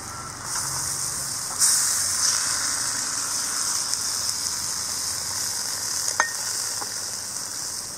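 Pre-cooked vegetables tipped into a stainless-steel frying pan of hot masala gravy, sizzling loudly from about a second and a half in as they are stirred with a spatula. There is one sharp click near six seconds in.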